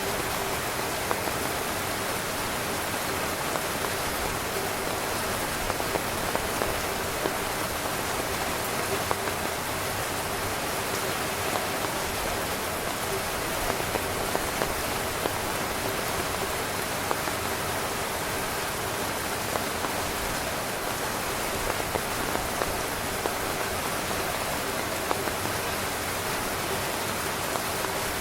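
Rain falling on a tent: a steady hiss of rain with frequent small, sharp drop hits scattered through it.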